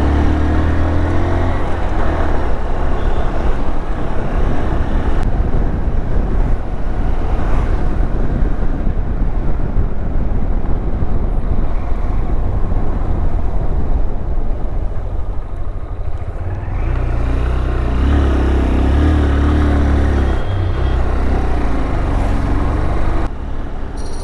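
Honda Hornet motorcycle running on the road, its engine note mixed with heavy wind rush on the rider's microphone. The low engine sound grows stronger for a few seconds about seventeen seconds in.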